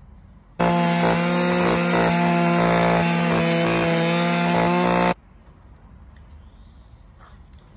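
Loud motor running steadily at high speed with an unchanging pitch. It cuts in abruptly about half a second in and cuts off just as abruptly about four and a half seconds later.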